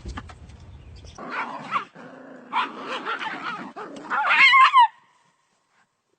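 A dog barking and yipping in short cries, with a louder, wavering whining yelp near the end that cuts off suddenly.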